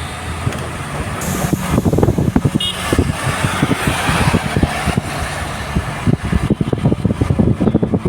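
A moving vehicle's road and engine noise, with many uneven low thumps from about a second and a half in.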